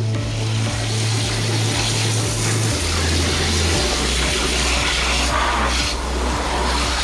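Water spraying in a strong, steady rush as the parts of a disassembled washing machine are rinsed, with background music's bass notes underneath.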